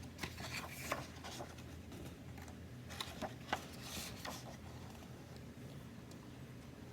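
Faint rustling and soft ticks of a picture book's paper pages being handled, a few short rustles about a second in and again around three to four seconds, over a low steady room hum.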